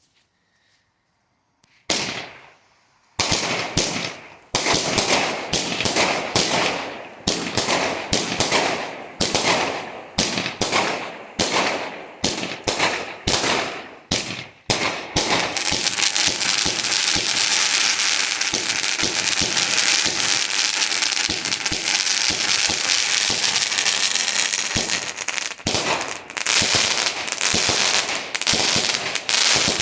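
Multi-shot firework cake (Aldi's Lightning Force) firing: after a couple of near-silent seconds, a quick string of sharp shots, each trailing off, then about ten seconds of dense continuous crackling, then separate shots again near the end.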